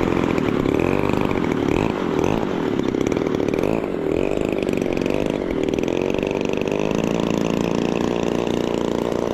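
Seagull Models P-47 Razorback RC warbird's EME 60 two-stroke gas engine running in flight, its pitch rising and falling as the plane passes back and forth.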